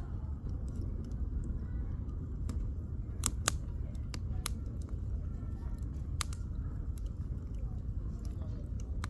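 Firewood burning in a campfire, crackling with irregular sharp pops and snaps, the loudest a quick pair about three and a half seconds in and another about six seconds in, over a steady low rumble.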